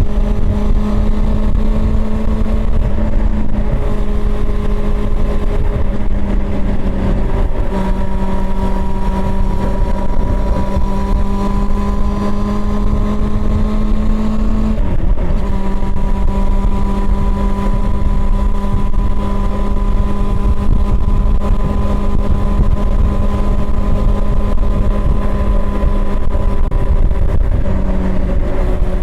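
Honda CB400 Super Four's inline-four engine running at steady, fairly high revs while riding, its pitch shifting slightly a few times, with a short dip about 15 seconds in. A loud low rumble runs underneath.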